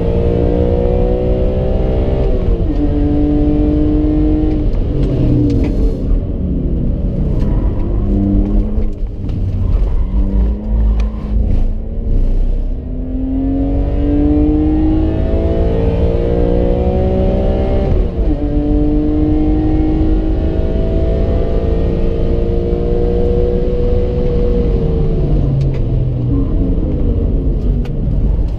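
BMW E46 M3's straight-six engine heard from inside the cabin on track: it revs up hard through the gears, its pitch climbing and then dropping sharply at each upshift, with downshifts under braking near the middle and again near the end before it pulls hard once more. Tyre and road rumble underneath.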